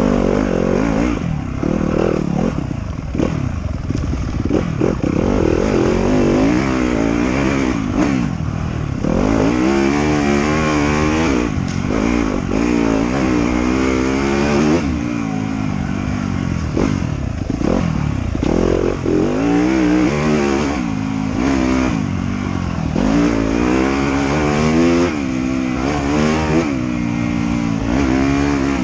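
Off-road motorcycle engine being ridden on a trail, revving up and falling back again and again as the rider works the throttle and gears, with a steady rush of noise underneath.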